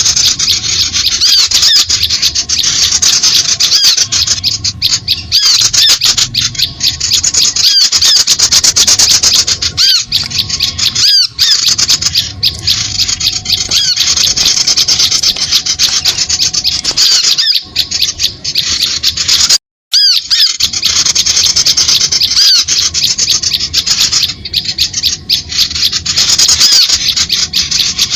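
Dense chorus of many small songbirds chirping and chattering without pause, high-pitched, played as a bird-lure call recording. It cuts out for a moment about two-thirds of the way through.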